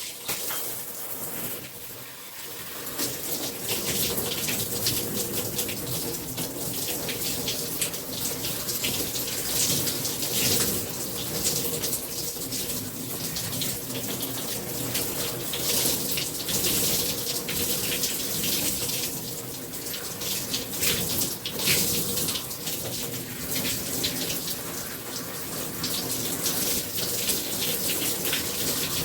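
Running water splashing as hair is washed and rinsed. It builds over the first few seconds and then carries on with uneven splashes.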